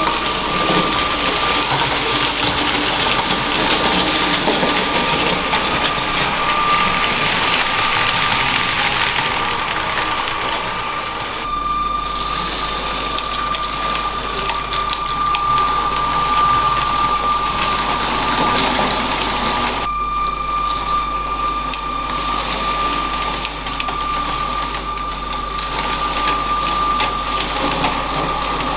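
LEGO train's small electric motor running with a steady high whine over the rattle of its wheels on plastic track. The rattle thins briefly twice, about a third and two-thirds of the way through.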